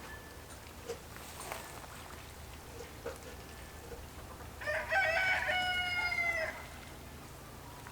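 A rooster crows once, about five seconds in: a single call of nearly two seconds that drops in pitch at the end.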